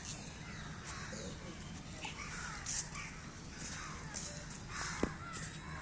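Crows cawing in short, repeated calls among other bird chatter over a steady low background, with one sharp click about five seconds in.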